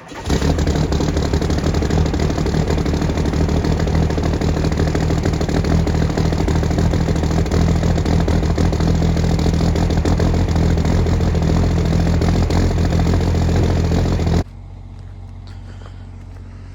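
Engine running loud and steady, which cuts off suddenly near the end and leaves a low steady hum.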